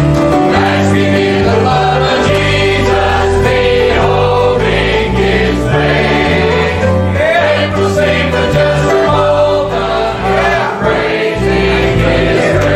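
Choir singing a gospel hymn with instrumental accompaniment: held chords over a moving bass line.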